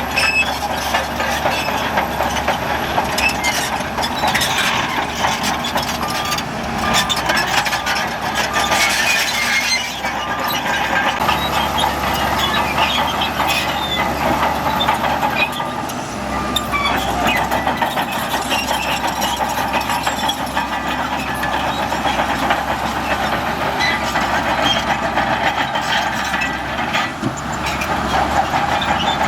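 A heavy diesel earthmoving machine runs and works continuously, with a steady engine and a constant clatter and rattling of metal parts.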